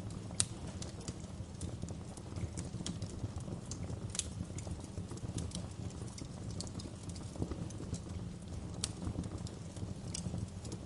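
Wood fire burning in a fireplace, crackling with irregular sharp pops and snaps over a steady low rumble of the flames. The sharpest pop comes about half a second in.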